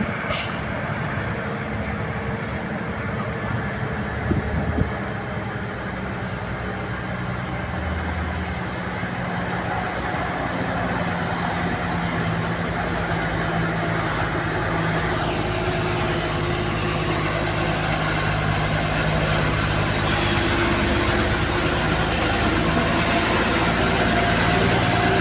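Heavy truck engine running steadily, gradually getting louder through the second half.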